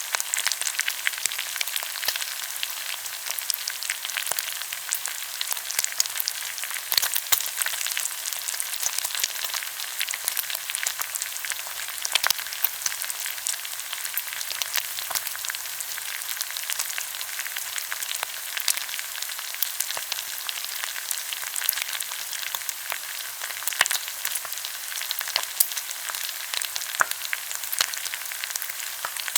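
Pork belly sizzling steadily in its fat on a hot grill, with frequent sharp crackles and pops of spitting fat.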